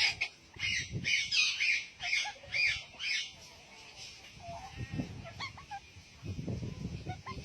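A bird giving a quick run of about seven harsh, raspy calls over the first three seconds, followed by softer, short chirps and twitters. There is some low rumbling underneath in the second half.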